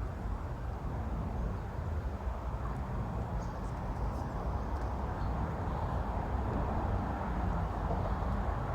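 Steady low rumble of road traffic on the bridge overhead, with no single event standing out.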